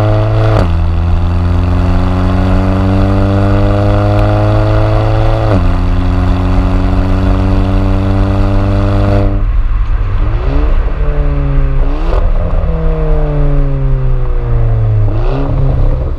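Volkswagen GTI's 1.8 TSI turbocharged four-cylinder through an aftermarket custom exhaust, accelerating hard with revs climbing and two upshifts, one just after the start and one about five seconds in. About nine seconds in the throttle is lifted and the revs fall, broken by three quick rev blips on downshifts as the car slows.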